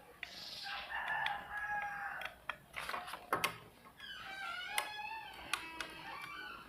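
A rooster crowing twice in the background, each crow a drawn-out call of about two seconds, with a few small clicks of hand-handled parts in between.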